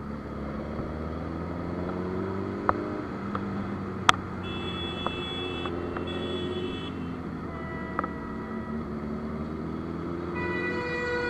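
Motor vehicle engine running steadily in road traffic, with a vehicle horn honking twice in short blasts midway and again near the end, and a few sharp clicks.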